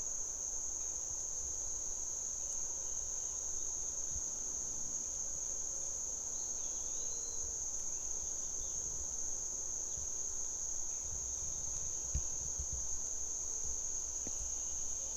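Insects trilling steadily at a high pitch, with a faint short bird whistle about seven seconds in and a few low thumps about twelve seconds in.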